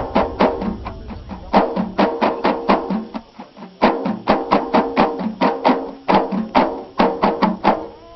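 Ahidous frame drums (bendir) beaten in a quick, uneven rhythm of sharp strikes, about three to four a second, with a short break a little past the three-second mark. The beating stops just before the end.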